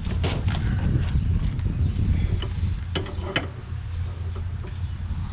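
Hand-tool work on the traction bar's metal hardware: a few sharp metallic clicks and creaks over a steady low hum.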